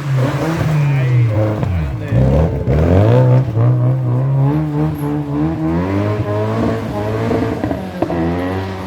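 Rally car engine running hard. Its pitch drops steeply about two seconds in, as if lifting off or changing down, then climbs again and rises and falls through the rest.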